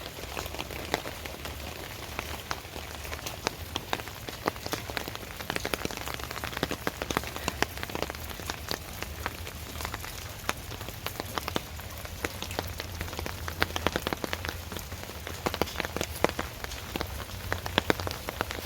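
Steady rain falling, with many individual drops landing close by as sharp taps at irregular intervals.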